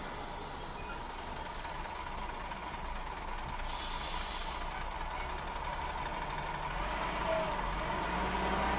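Steady vehicle running noise with a low rumble, and a short hiss about four seconds in.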